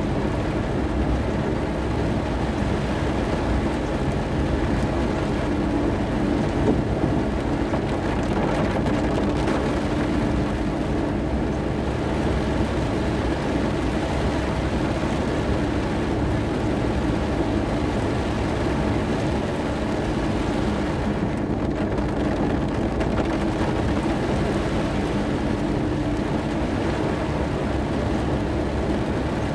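Very heavy monsoon rain pouring on a car's roof and windshield, heard from inside the cabin as a steady, dense rush, over the car's own steady low running hum.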